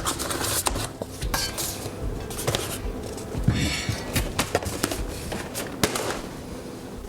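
Packaging being handled during unboxing: scattered clicks and light knocks with patches of rustling, the longest rustle about halfway through.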